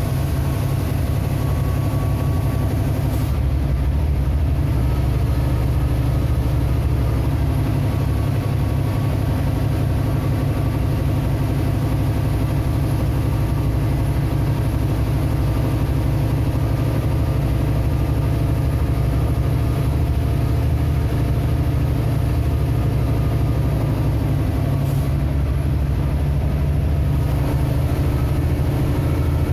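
A vehicle's engine running at a steady, unchanging pitch, with a strong low drone.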